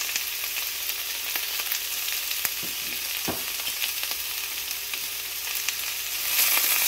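Stir-fry vegetables sizzling in a hot non-stick frying pan: a steady hiss with scattered small crackles, growing louder near the end.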